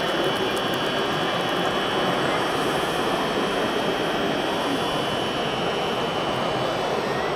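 Steady whirring of the small electric motors and gear trains in 3D-printed RC construction models, with a thin high whine held throughout.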